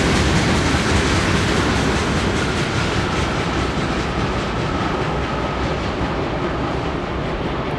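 Freight train cars rolling along the track, a steady rumble and clatter of steel wheels on rail that slowly fades as the train moves away. A faint thin squeal comes in for a couple of seconds in the middle.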